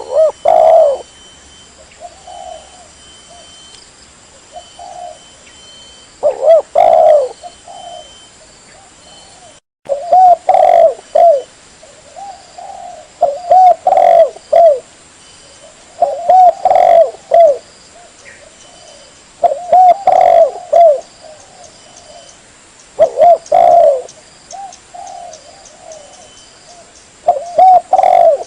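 Spotted dove (tekukur) cooing: a loud phrase of several coos comes roughly every three seconds, with fainter coos between.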